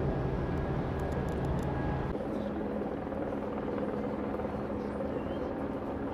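Steady low engine drone with a humming pitch, changing abruptly about two seconds in.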